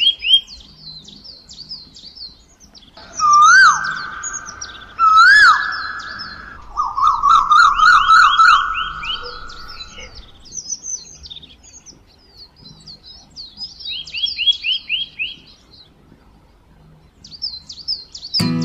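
Birdsong: small birds chirping in quick high series, with two louder whistled calls about three and five seconds in and a fast trill a little after seven seconds.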